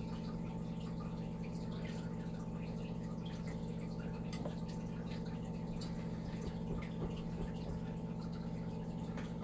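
Steady low electrical hum of room equipment, with a few faint ticks about four and a half and seven seconds in.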